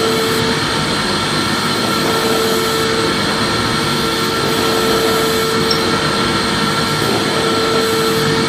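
Vacuum cleaner running steadily: a constant rushing hiss over a steady motor whine.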